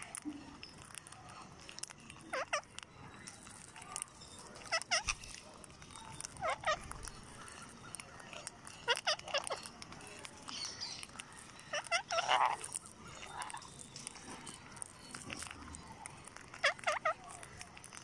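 Short bird calls, a quick squawk or two every couple of seconds, with a busier cluster of calls about twelve seconds in.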